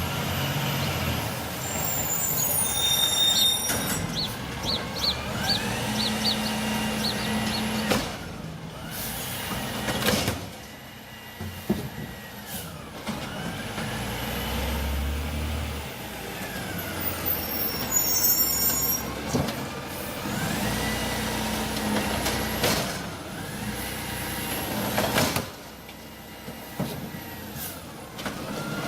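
City garbage truck at work: air brake hisses, a short run of beeps, a whine rising and falling in pitch, and sharp knocks. The same sequence comes round again about halfway through.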